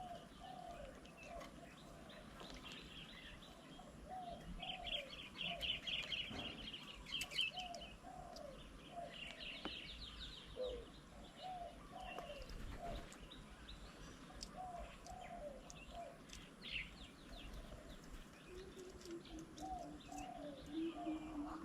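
Garden birds calling: a steady series of short, down-slurred, cooing notes repeats throughout, joined twice by bursts of rapid high trilling. A low steady hum comes in near the end.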